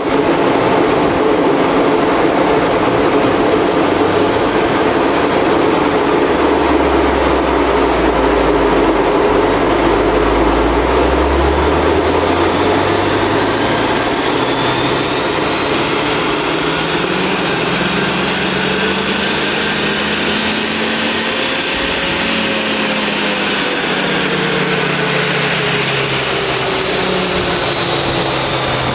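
Honda Civic Type R FK2's 2.0-litre turbocharged four-cylinder engine pulling a full-throttle power run on a chassis dyno: the revs climb steadily for about twenty seconds, then fall away near the end as the run finishes. A steady loud rush of tyres spinning on the dyno rollers runs underneath.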